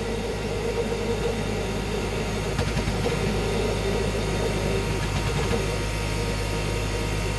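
Propane-air flame burning steadily in a homemade combustion chamber fed by a compressor, a continuous, even rumble.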